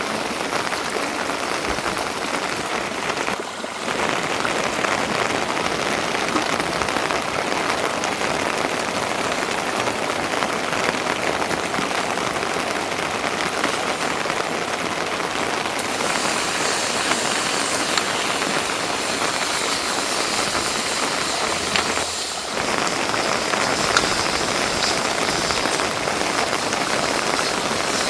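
Steady rain falling, a dense even patter that briefly dips twice.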